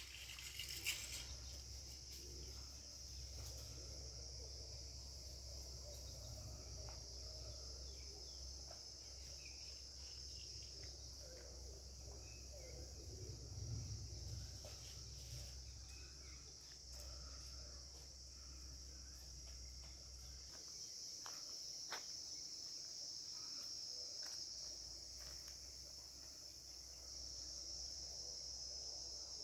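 Insects chirring in a steady, unbroken high-pitched drone, over a faint low rumble.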